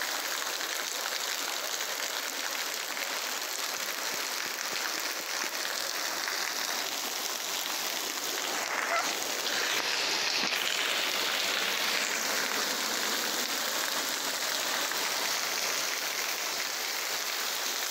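Heavy rain and floodwater running: a steady hiss, a little louder for a couple of seconds about halfway through.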